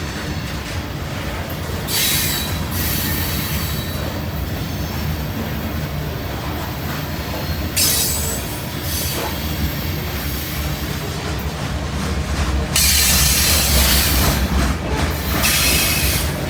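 Norfolk Southern freight train rolling past with a steady low rumble, its wheels squealing against the rails in several loud bursts, the longest near the end.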